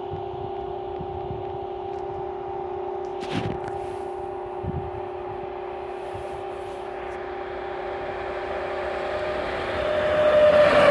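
An EU07-family electric locomotive hauling passenger coaches approaches over a steady hum. It grows louder towards the end, with the rumble of wheels on rails swelling as the train draws close.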